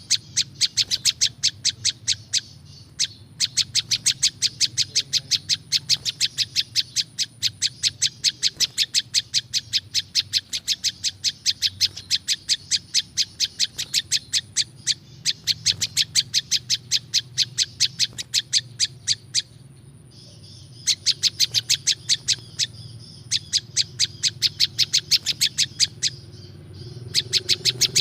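Prinjak lumut calling: long runs of sharp, rapid chip notes repeated about five times a second, broken by short pauses.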